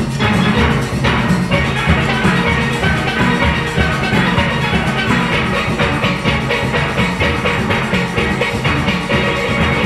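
A large steel orchestra playing a fast calypso arrangement: many steel pans of different ranges over a steady drum and percussion beat.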